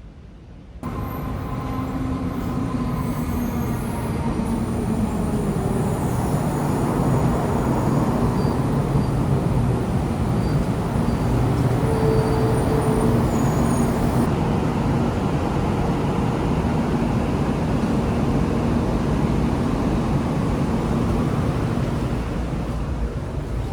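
Taiwan High Speed Rail train running: a loud, steady rush of wheel and rail noise with faint whining tones. It starts suddenly less than a second in.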